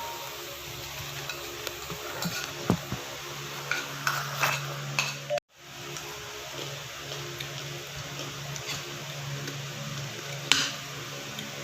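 Cutlery clinking and scraping on plates during a meal, scattered light clicks over a steady low hum. The sound drops out briefly about halfway through, and there is a sharper clink near the end.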